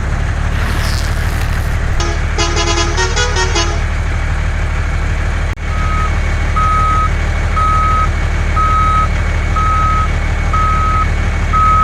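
Truck engine running with a steady low rumble. About two seconds in there is a short run of horn-like notes, and from about six seconds a reversing alarm beeps about once a second.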